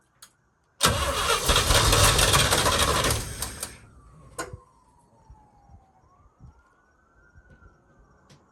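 1966 International Harvester BG 241 inline-six being cranked over by its starter for about three seconds, loud, then stopping without settling into an idle. A faint falling whine follows.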